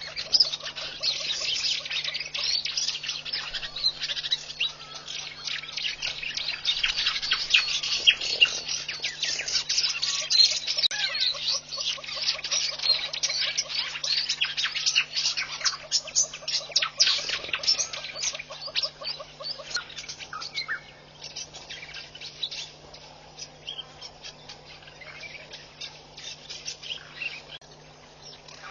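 A chorus of many small birds chirping rapidly and busily, dense for most of the stretch and thinning out toward the end. A steady low electrical hum runs underneath.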